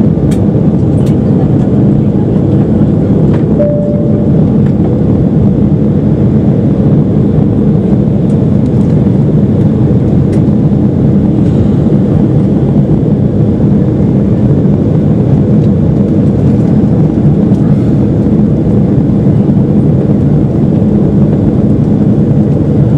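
Steady loud jet airliner cabin noise in flight: engines and rushing air heard from inside the passenger cabin, with a brief faint tone about four seconds in.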